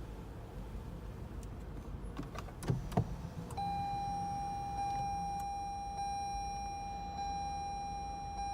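A few sharp clicks and knocks inside a Lexus NX300 F Sport, then a steady electronic buzzer tone from the car starts about three and a half seconds in and sounds without a break.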